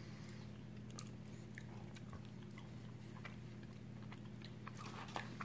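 Faint chewing of a soft red bean yokan bar, with a few small crinkles and clicks from its foil wrapper being handled, over a steady low hum.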